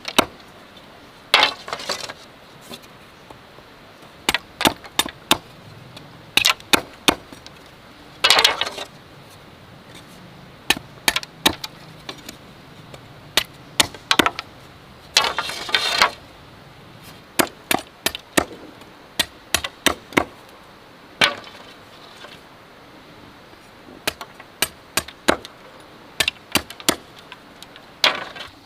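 Bamboo being chopped and split for a fence: irregular sharp wooden knocks, often several in quick succession, with three longer rasping bursts about a second and a half, eight and a half, and fifteen seconds in.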